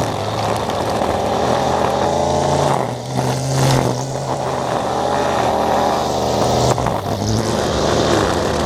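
Small gasoline engine of lawn care power equipment running loudly and steadily under throttle. It starts abruptly as the music cuts away.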